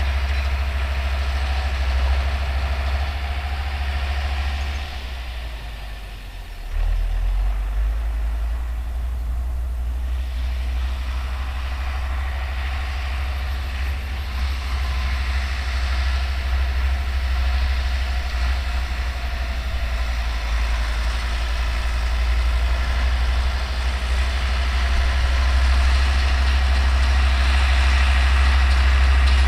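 Older Deutz tractor's diesel engine running steadily under load while pulling and driving a New Holland round baler. The engine note drops briefly about five seconds in and picks back up about two seconds later.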